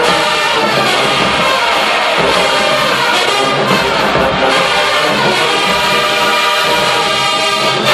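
Marching band playing loudly, the brass section to the fore with trumpets and trombones sounding full chords, unbroken.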